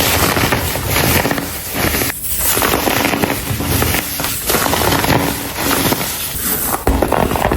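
Clumps of dried, coloured baking soda being crushed and crumbled by hand: dense, crunchy crackling in stretches of a second or two with brief pauses between squeezes.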